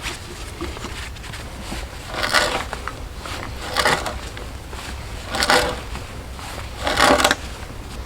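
Four rasping scrapes, evenly spaced about a second and a half apart and each lasting about half a second, like a hand tool working material.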